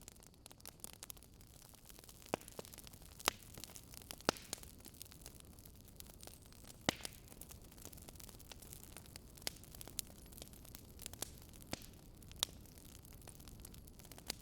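Wood fire crackling: a faint steady hiss of burning with sharp, irregular pops and snaps from the logs.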